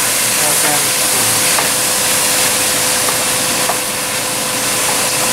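Stir-fry vegetables and mushrooms sizzling in a hot pan, a steady frying hiss, with a few light clicks of the spoon as they are stirred. A faint steady hum runs underneath.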